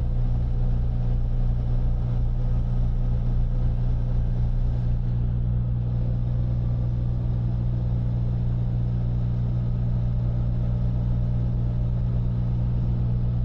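Freightliner semi-truck's diesel engine running steadily at road speed, heard inside the cab as a constant low drone with tyre and road noise.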